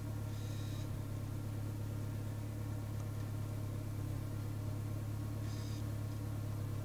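Car engine idling, heard inside the cabin as a steady low hum, with two brief faint high-pitched sounds, one about half a second in and one near the end.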